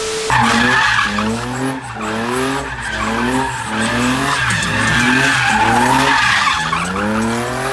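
A car engine revving up and falling back over and over, about once a second, while its tyres squeal without a break, as in a burnout or donut.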